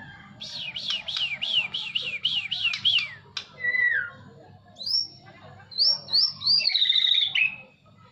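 Songbird singing loudly: a quick run of about a dozen down-slurred chirps over roughly three seconds, then a single falling whistle, then more high whistled notes and a warbling phrase near the end.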